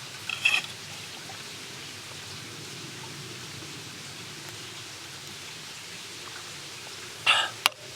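Monja-yaki sizzling steadily on a hot iron griddle. Two short metallic scrapes cut in, one about half a second in and one near the end.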